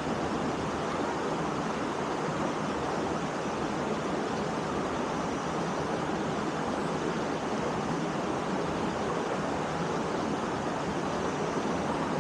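Waterfall rushing steadily into a rock pool, a constant even roar of falling water.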